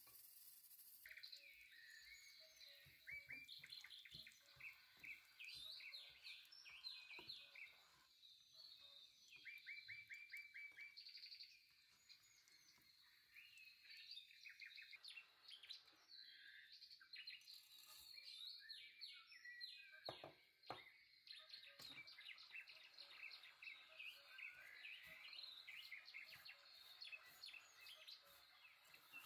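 Small birds chirping and twittering in quick trills and short repeated notes, with a couple of soft knocks about twenty seconds in.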